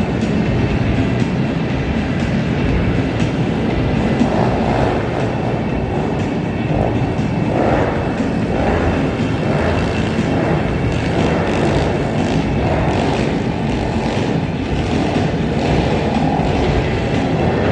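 A pack of pit bikes racing, their small engines revving and blending into a steady, loud din.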